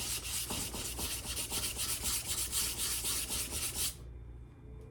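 Sandpaper rubbed back and forth by hand over a rusty steel axe head in quick, repeated strokes, stopping about four seconds in.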